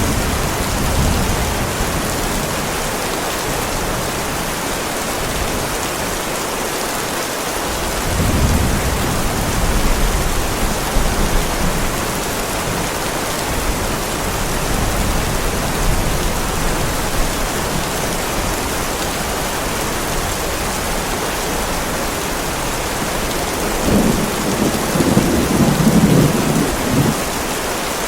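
Heavy rain falling steadily on a driveway, with rolls of thunder rumbling three times: near the start, about a third of the way in, and most loudly near the end.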